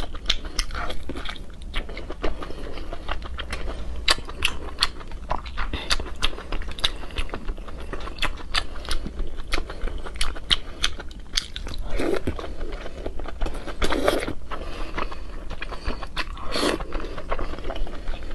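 Close-miked biting and chewing of chewy, sauce-coated rolled braised food: a rapid run of sharp wet mouth clicks, with a few louder bites about two-thirds of the way through. A steady low hum lies underneath.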